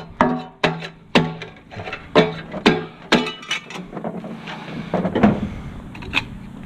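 A string of sharp metallic clanks on a scrap aluminum grill's parts, each with a brief ringing tone. They come irregularly, several in the first three seconds, then thin out.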